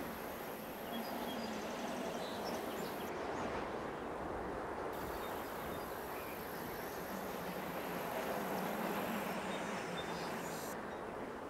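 Outdoor ambience: a steady wash of open-air noise, with a few faint high chirps now and then.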